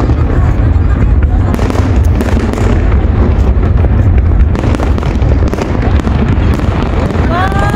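Large aerial fireworks display: a dense, continuous barrage of shell bursts and crackle over a heavy low rumble. Near the end a held, pitched tone slides up and sustains over the bursts.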